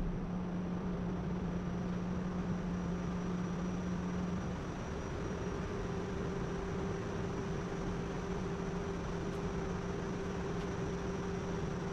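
Steady machine hum with a constant tone that steps up to a higher pitch about four and a half seconds in.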